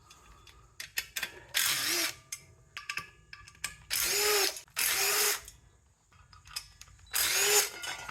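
A handheld power driver run in four short bursts of about half a second each, its motor spinning up and down each time, with small metal clicks between bursts, while a pump motor is unbolted to get the rotor out.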